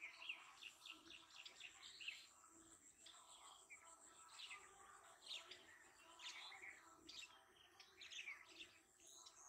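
Faint chirping of small birds, many short calls in quick succession, over a thin steady high whine.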